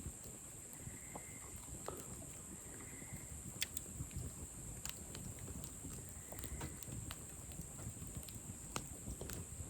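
Wood campfire crackling, with irregular sharp pops and clicks over a steady high hiss.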